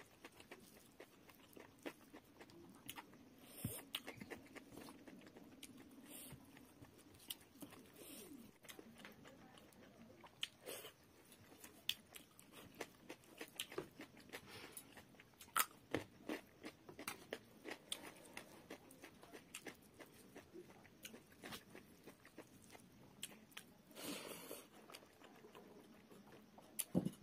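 Close-miked eating of rice and fish curry by hand: chewing with many small irregular clicks, and fingers mixing rice on the plate.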